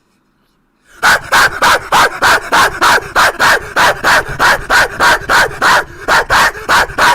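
Loud, rapid barking, about three to four barks a second, starting about a second in after a moment of silence.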